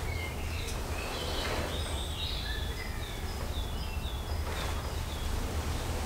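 Small birds chirping repeatedly in short, quick notes, over a steady low rumble.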